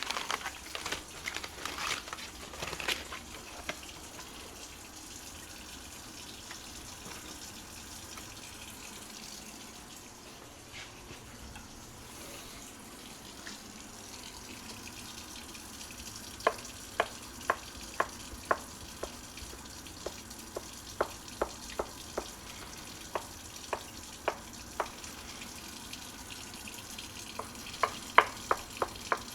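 Food frying in a pan: a steady sizzle, louder and more irregular in the first few seconds, with sharp pops of spitting oil coming again and again through the second half.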